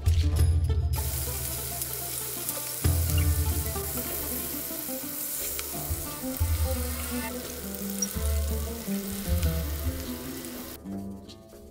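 Stuffed bell peppers sizzling in hot oil in a frying pan while they are turned with forks. The sizzle stops abruptly shortly before the end.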